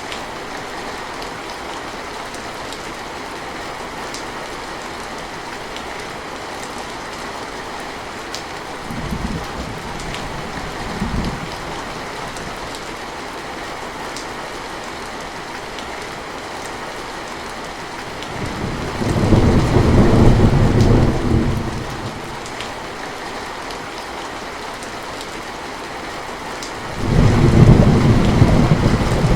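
Steady rain with thunder: two short low rumbles about a third of the way in, then a loud roll of thunder lasting a few seconds past the middle and another near the end.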